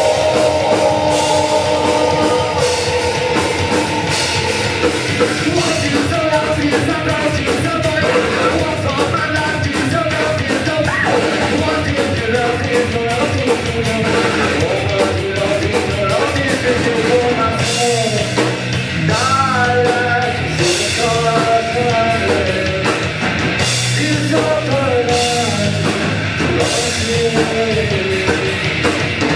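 A live rock band playing loudly, with guitars and a drum kit.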